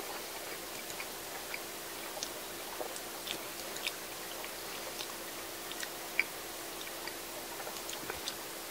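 Someone chewing a mouthful of curry bread (kare-pan): scattered small crisp crackles and mouth clicks, with one sharper click about six seconds in.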